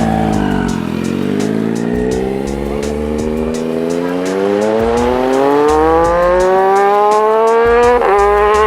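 Motorcycle engine accelerating: its pitch dips briefly, then climbs steadily for several seconds, with a short break near the end like a gear change. Music with a beat plays underneath.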